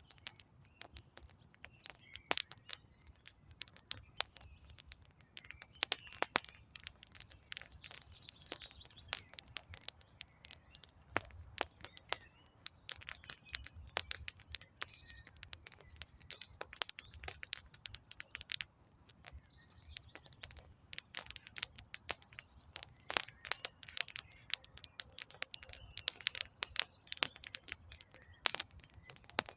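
Wood campfire crackling, with many irregular sharp pops and snaps, while birds chirp faintly in the background.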